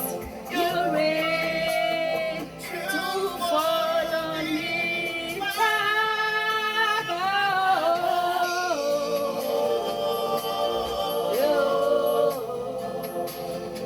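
A woman singing gospel-style worship, holding long notes that slide from pitch to pitch.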